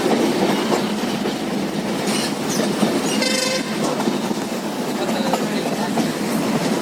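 Passenger train running along the track, heard from on board: a steady rumble with wheel clatter, and a brief high-pitched ring about halfway through.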